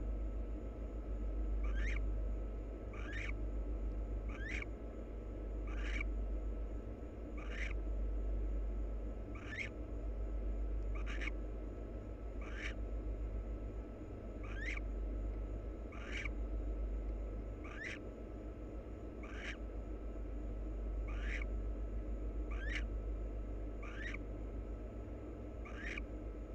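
Barn owl giving short, evenly repeated calls about every one and a half seconds, over a steady low electrical hum from the nest-box camera's microphone.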